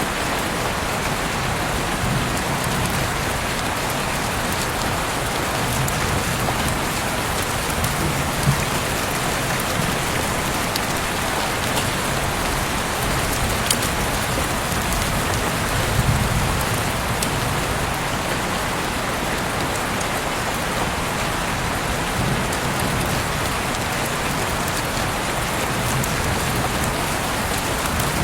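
Heavy rain falling steadily, a dense even hiss, with a few sharper drop ticks standing out now and then.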